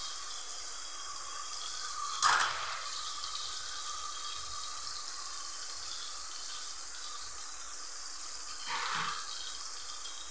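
Chopped tomatoes and onion sizzling steadily in hot oil in a steel kadhai. There is a sharp knock about two seconds in and a softer one near the end.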